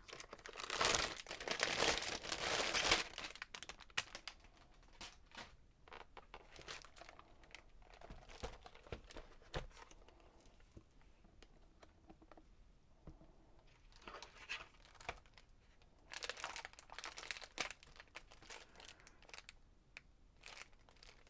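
Crinkling and rustling of plastic packaging and papers being handled as a ring binder of craft idea sheets is opened, loudest in the first three seconds and again about 16 seconds in, with scattered light clicks and quieter handling between.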